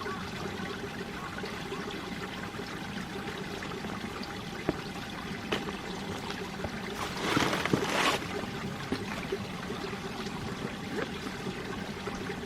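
Mountain valley stream running and trickling over rocks in a steady rush of water, with a brief louder surge about seven seconds in.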